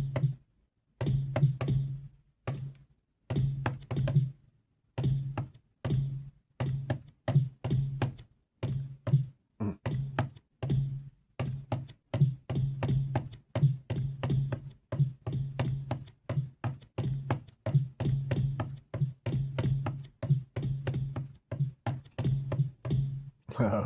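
Finger-drummed beat played live on a MIDI pad controller, firing drum samples in a stop-start pattern that gets busier as it goes. Most hits carry a deep bass tone underneath.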